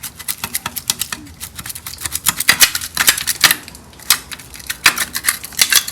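Hand ratchet wrench clicking in quick strings of sharp ticks with short pauses, loosening fasteners on a Type 4 VW engine's oil cooler tin.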